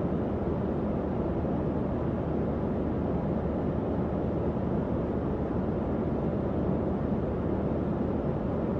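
Tower fan running steadily: an even, low rushing whoosh of moving air with no changes in speed.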